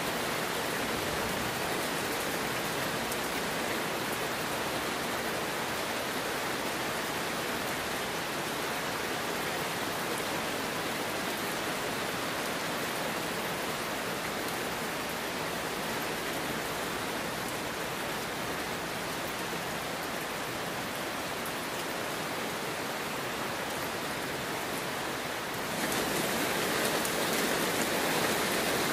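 Heavy rain falling, a steady, even hiss of countless drops with no single drops standing out. About three seconds before the end it steps up suddenly, louder and fuller.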